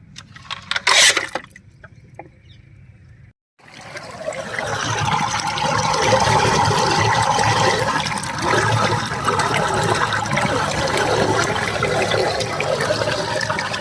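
Water rushing and gurgling steadily, starting just after a sudden break about three and a half seconds in. Before the break comes a single short, loud burst of noise about a second in.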